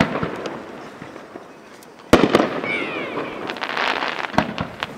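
Fireworks going off: a burst dies away at the start, then a loud bang comes about two seconds in, followed by a couple of seconds of crackling that trails off.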